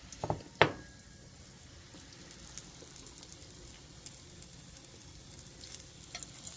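Pancake batter sizzling faintly in a hot skillet greased with pork roll drippings, a light crackle with scattered ticks. Two sharp knocks sound within the first second.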